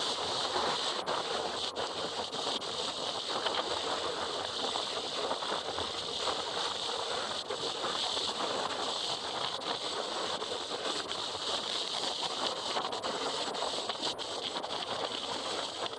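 Steady rushing noise of wind and wet road while riding a motorcycle in the rain, heard at the rider's helmet.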